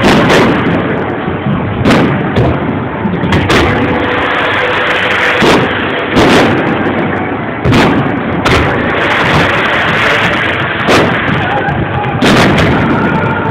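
Fireworks shells bursting in a display: about ten sharp bangs at uneven intervals, one to two seconds apart, over a steady din that does not let up between them.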